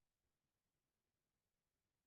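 Near silence: a pause in speech with no audible sound, likely digitally gated.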